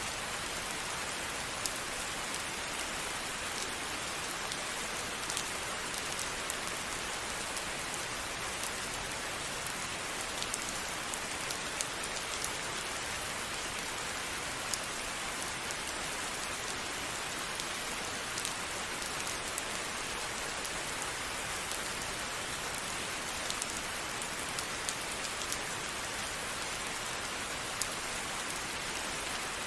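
Steady rainfall: an even hiss of rain with scattered sharper drop ticks.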